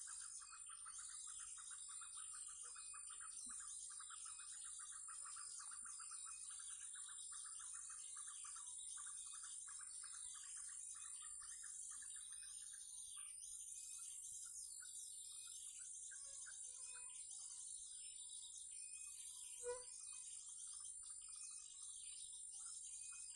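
Birds calling over and over in short repeated chirps, over a steady high insect-like drone. A fast pulsing trill runs through the first half and fades out about 13 seconds in. A single short knock comes near the end.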